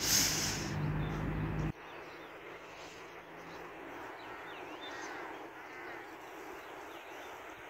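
Faint bird calls, a few short rising-and-falling chirps, over quiet outdoor ambience. For about the first second and a half, a louder steady low hum with a burst of rustling covers it, then cuts off abruptly.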